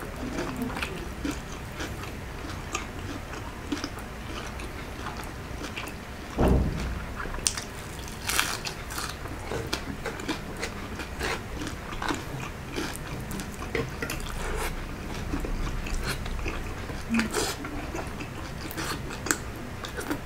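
Close-up mouth sounds of crispy fried pork belly (lechon kawali) and rice being eaten by hand: chewing with crunches and lip smacks throughout, and a dull thump about six seconds in.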